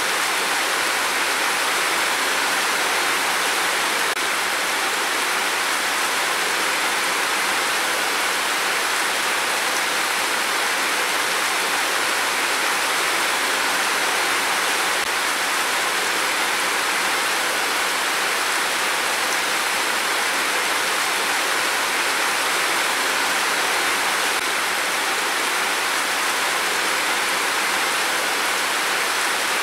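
Heavy rain pouring down in a steady, even hiss with no thunder or other distinct events.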